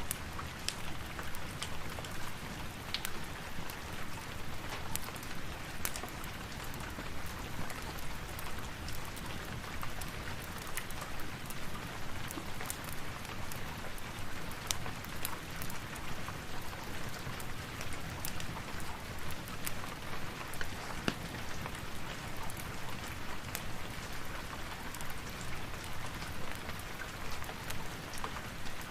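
Steady rain falling, with many sharp clicks and pops scattered irregularly through it.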